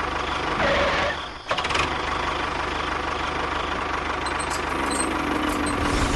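A small motor on a home-built mini tractor or bulldozer running steadily with an even pulsing beat, dropping away briefly about one and a half seconds in and then picking up again.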